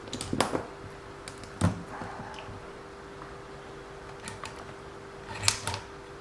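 A few light clicks and knocks as the RC car's drivetrain parts are handled and moved, over a steady hum.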